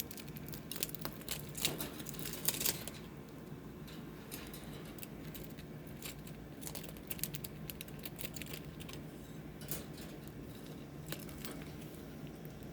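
Scattered light clicks and taps, thick in the first three seconds and sparser after, over a steady low hum.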